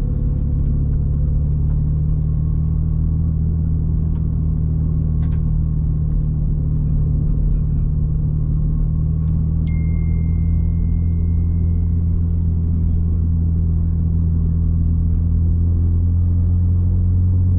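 Small roadster's engine running steadily under load as the car climbs a mountain road: a steady low drone that grows a little louder toward the end.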